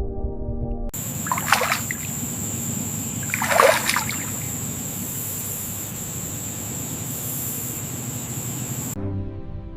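Running water with two splashes, one about half a second in and a louder one about two and a half seconds in, over a steady trickle and a thin high whine. Music is heard briefly at the start and again at the end.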